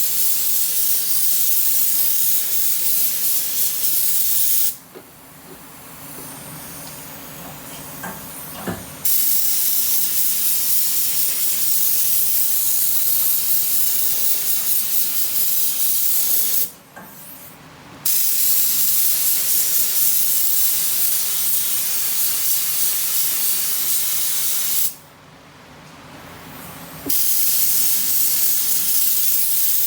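Compressed-air paint spray gun hissing steadily as it sprays, cut three times for one to four seconds when the trigger is let off, with a few faint knocks in the first break.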